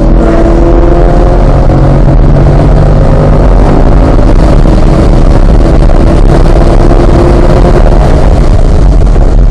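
C8 Corvette's 6.2-litre V8 pulling hard at full throttle, its pitch slowly rising with speed, with an upshift from fourth into fifth near the end. Heavy wind and road noise from over 100 mph fill the cabin.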